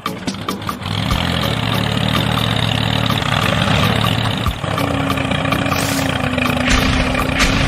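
A vehicle engine running steadily, with a second steady hum joining about five seconds in.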